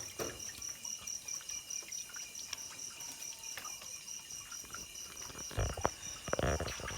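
An insect chirping steadily, a high-pitched rapid pulsing of several chirps a second. A few soft knocks near the end.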